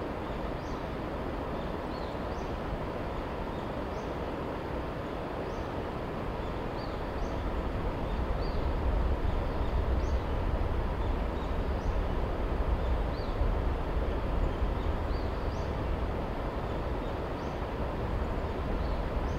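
A JR 383-series limited express electric train running through the valley at a distance: a low rumble that builds about eight seconds in and holds. Over it, a small bird chirps short high notes about once a second.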